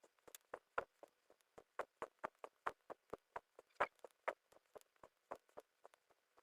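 Light, sharp taps or clicks in an irregular run of about four to six a second, varying in strength, the loudest near four seconds in.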